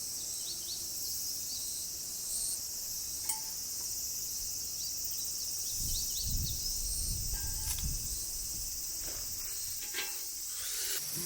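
Steady high-pitched chorus of insects trilling, with a few faint clicks and a low rumble around the middle.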